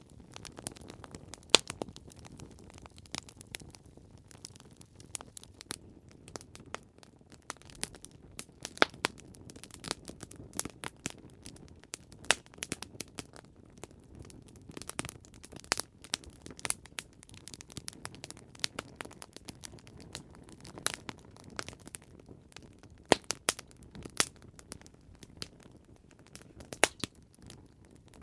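Wood campfire crackling and popping: irregular sharp snaps, a few of them loud, over a soft low rumble of burning.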